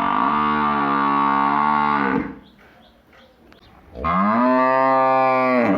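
A bovine mooing: one long low moo already under way that ends about two seconds in, then a second moo of a little under two seconds starting about four seconds in.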